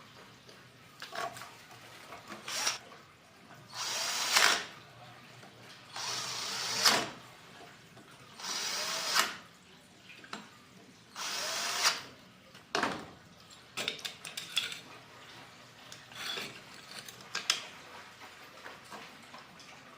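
A small power tool, drill-like, runs in four short bursts of about a second each. Light clicks and knocks come between and after the bursts.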